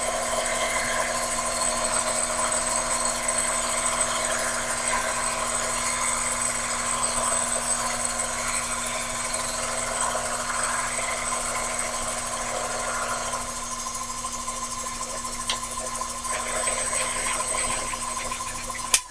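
Sherline mini lathe running under power, its high-speed steel tool taking a cut along an aluminum workpiece turned between centers: a steady motor hum and whine with cutting noise. A sharp click comes near the end.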